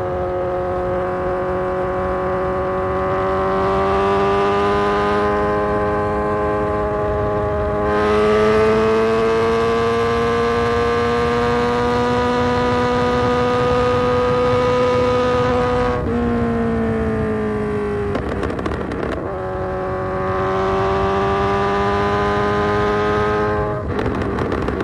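Kawasaki Z900's inline-four running through an Austin Racing full exhaust system under way, its note steady and slowly rising in pitch. About two-thirds in the revs drop, and the engine note breaks off briefly twice near the end.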